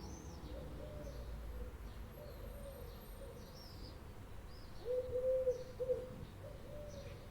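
Small birds chirping in short repeated notes, with a few short low calls about five seconds in.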